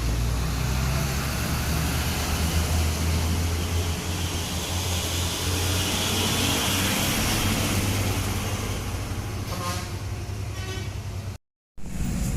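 Heavy truck's diesel engine pulling a load of sugarcane uphill, a steady low rumble with tyre and road noise that swells as it passes and then fades. The sound cuts out briefly near the end.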